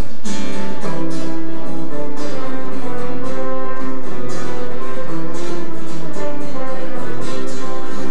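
Instrumental music led by a strummed acoustic guitar, chords struck in a regular rhythm over sustained notes.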